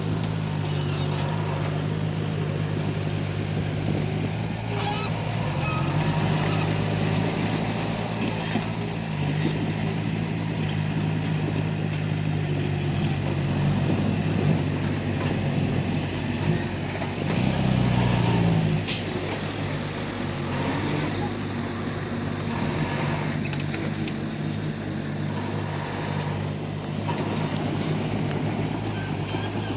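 Komatsu D31P bulldozer's diesel engine running under steady load, its note rising and getting louder for a moment about two-thirds of the way through.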